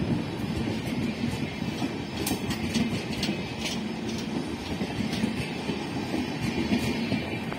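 Express train coaches rolling past on the platform line, their wheels giving a steady rumble and clatter over the rails, with a run of sharp higher clicks a couple of seconds in.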